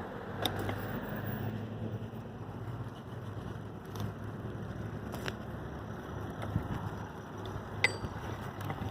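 Steady wind and road rumble while riding an adult tricycle, with a few sharp clicks or rattles from the trike.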